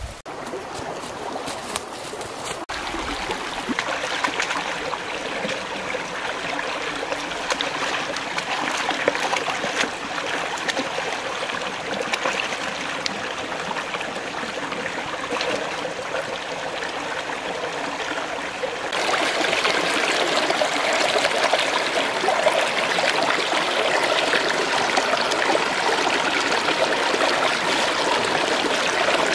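Water running and trickling steadily, louder after an abrupt change about two-thirds of the way in.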